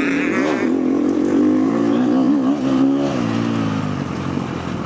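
Four-stroke KTM motocross bike engine being ridden hard, its pitch rising and falling repeatedly as the throttle opens and closes, then settling to a lower note in the last second or so.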